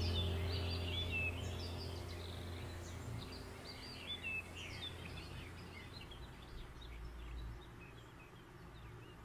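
Small birds chirping, short repeated chirps that thin out and fade over the first seven seconds, over a faint low hum that dies away in the first few seconds. A brief soft bump about four seconds in.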